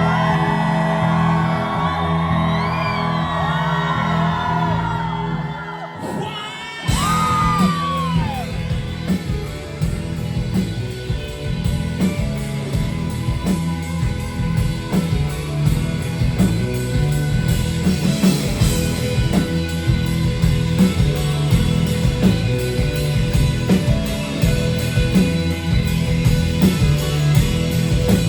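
Indie rock band playing live: singing over held chords, then after a brief break around six seconds a high gliding note and the full band with drums coming in, a steady beat from there on.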